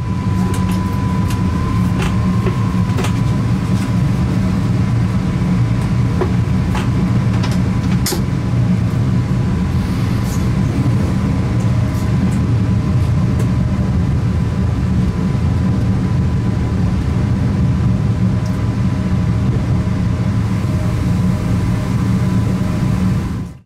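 Electric multiple unit (Koleje Małopolskie 45WE, a Stadler FLIRT3) running along the line, heard from inside the driver's cab: a steady low rumble with a faint steady high tone and scattered sharp clicks.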